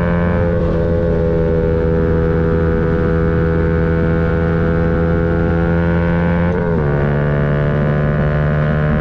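Yamaha MT-125's 125 cc single-cylinder four-stroke engine running steadily under way, a steady pitched note. About two-thirds of the way through the note dips briefly and settles a little lower.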